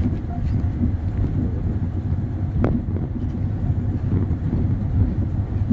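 Khyber Mail passenger train running along the track, heard from aboard: a steady low rumble of wheels on rails with some wind noise, and a single sharp click about two and a half seconds in.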